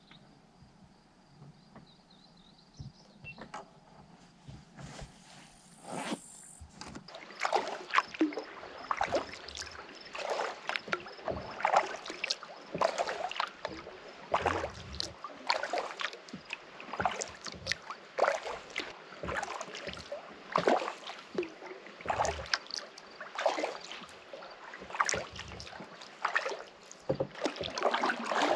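Kayak paddle strokes splashing and dripping in the water, about one stroke a second, starting about six seconds in after a quiet opening.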